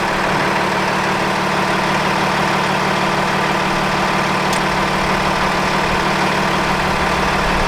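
A vehicle engine running steadily with a constant hum.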